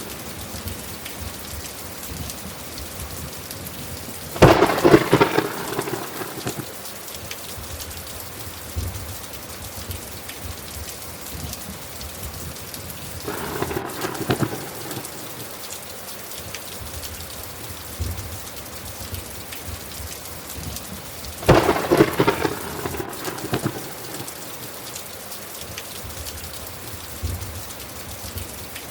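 Steady heavy rain with three claps of thunder: sharp loud ones about four seconds in and again about three quarters of the way through, and a softer one near the middle.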